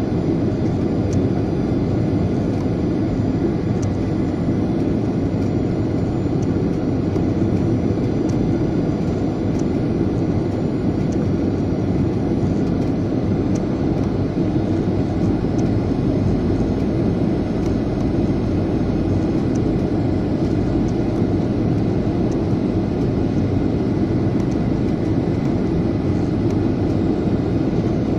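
Airliner cabin noise during descent: a steady rush of engine and airflow heard inside the passenger cabin, with no change in level.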